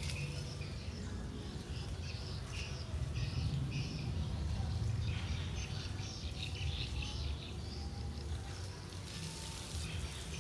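Birds chirping on and off over a steady low rumble.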